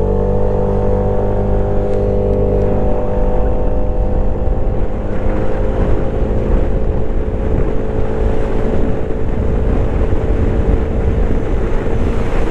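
Vespa GTS 125 single-cylinder four-stroke scooter engine at full throttle during a 0-to-100 km/h acceleration run. After a quick rise the engine pitch holds nearly steady at high revs while the automatic CVT takes it up through speed. Wind rushing over the microphone grows louder as speed builds.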